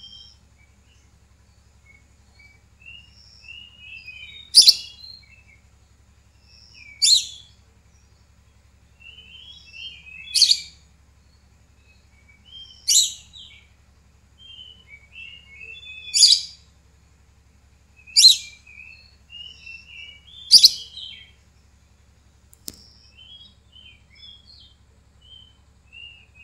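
Lovebird calling: seven loud, sharp, high shrieks about every two to three seconds, with soft chattering twitters between them.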